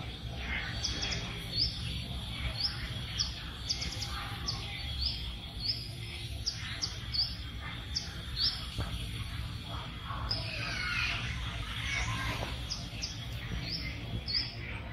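Bird chirping in a run of short high notes, about two a second, pausing midway, with other curving bird calls around ten seconds in, over a steady low rumble.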